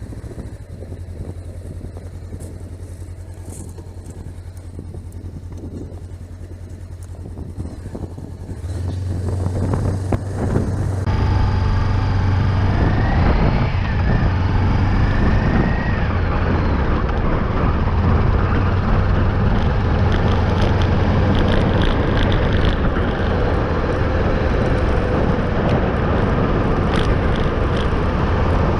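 Honda CB500X parallel-twin motorcycle running on the move, a steady engine drone with road noise. It gets louder about nine to eleven seconds in.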